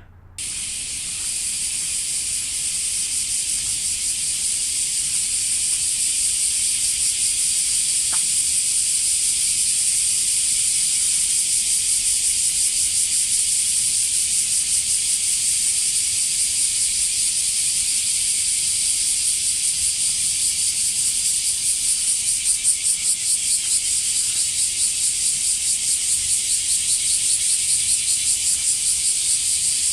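Loud chorus of cicadas, a dense high shrill buzz. Toward the end it takes on an even pulsing of about three beats a second.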